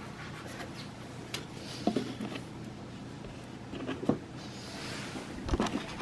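Light handling noises: three short clusters of small knocks and rubbing, about two seconds apart, over a steady low hum.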